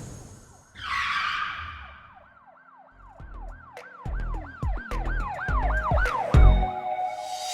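Produced intro sound effects: a swoosh, then a fast siren-like wail whose pitch rises and falls about two to three times a second. Deep bass hits come in under it and build in loudness, leading into music.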